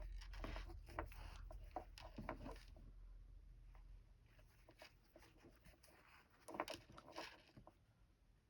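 Faint scratching and rustling of a needle and thread being pulled through thick fabric in hand stitching, in two spells: over the first few seconds and again about six and a half seconds in.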